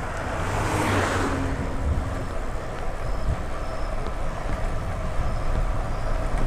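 Road traffic noise heard while riding: a vehicle passes about a second in, over a steady low rumble.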